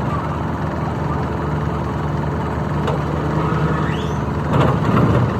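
An engine running steadily at idle, with a faint knock about three seconds in and a few louder knocks near the end.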